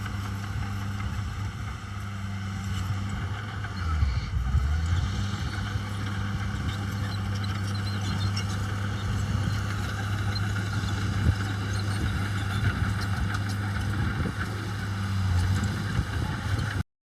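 Dump truck's diesel engine running steadily with a deep hum. The engine note wavers briefly about four seconds in, and the sound cuts off abruptly near the end.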